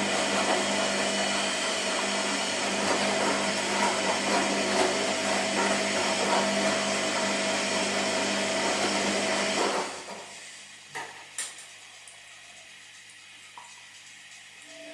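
Washing machine on its wash cycle: the motor whirs steadily as the drum turns, then stops about ten seconds in, with a couple of brief clicks during the pause.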